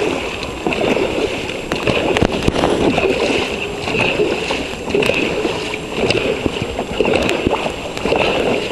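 Dragon boat crew's paddles dipping and pulling through the water in unison, splashing in a steady rhythm about once a second.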